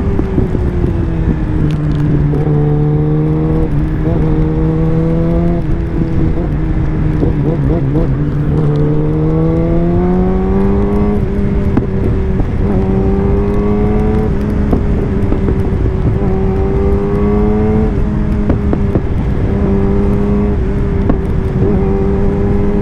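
Kawasaki ZX-10R inline-four engine running under way, its pitch dipping and climbing with the throttle and jumping in several abrupt steps, over a heavy low wind rumble on the microphone.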